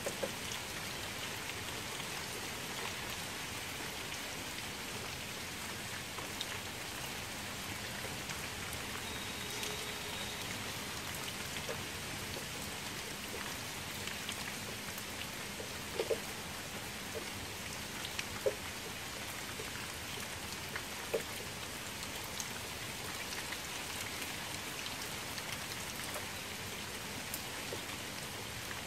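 Steady rain falling into a shallow muddy puddle, an even hiss of many drops hitting water. A few single louder drop plinks stand out in the middle.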